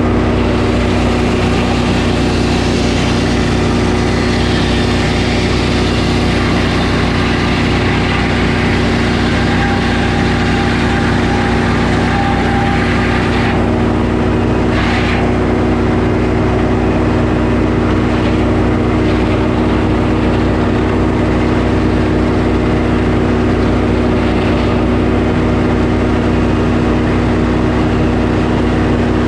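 Sawmill engine running steadily at constant speed while the saw cuts through a pine log; the hissing cutting noise stops about halfway through, with a brief burst shortly after, and the engine runs on unchanged.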